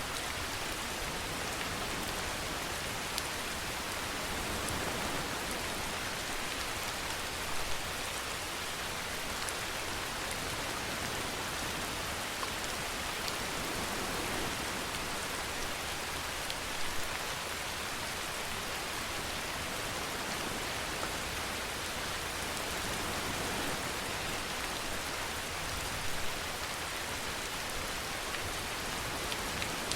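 Steady rainfall, an even hiss of rain falling on a surface, with a few slightly louder drops or splashes now and then.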